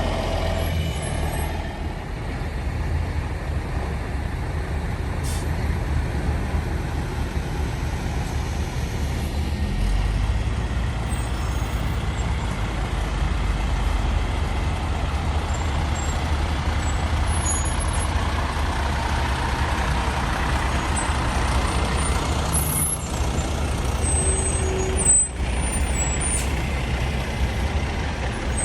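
Heavy diesel semi truck engine running with a steady low rumble, swelling in the middle, with one short sharp sound near the end.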